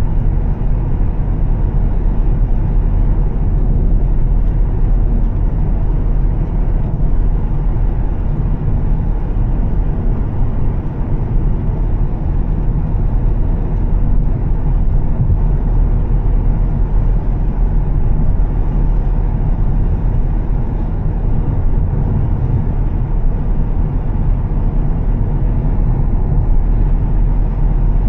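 Volvo S60 T6's turbocharged straight-six, with a Heico aftermarket exhaust, running at a steady cruise, with tyre and road noise on a wet road. A low, even sound with no changes in pace.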